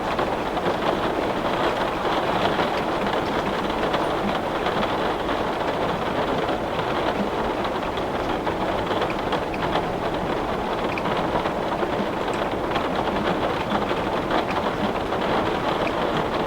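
Heavy rain beating on window glass: a steady, dense patter with scattered sharper drop ticks.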